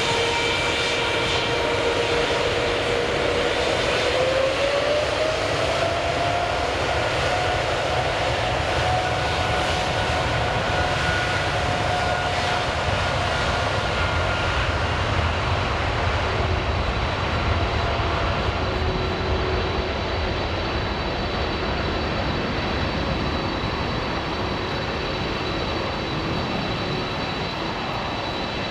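Large jet airliner's engines running loud: a steady rushing roar with a whine that climbs in pitch about four to six seconds in, then slowly fading over the second half.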